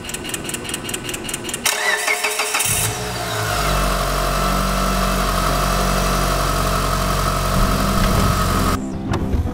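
Mitsubishi MIVEC four-cylinder engine cranking on the starter, catching about two seconds in and settling into a steady idle with a high whine over it, cut off near the end. It is the test start after fitting new spark plugs.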